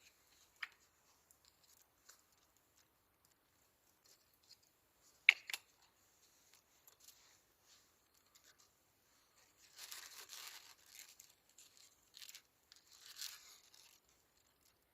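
Quiet, scattered rustling and crinkling, with a sharp click about half a second in and a louder snap about five seconds in, and longer rustling around ten and thirteen seconds.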